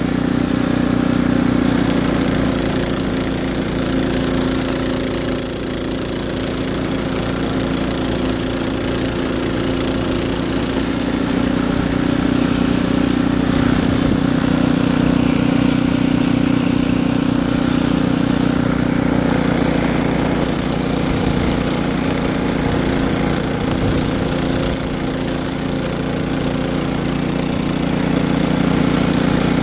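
Snowblower's small petrol engine running steadily at constant speed.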